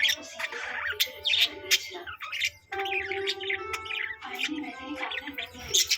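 Budgerigars chirping and squawking in quick, busy chatter, with a short pause about two and a half seconds in.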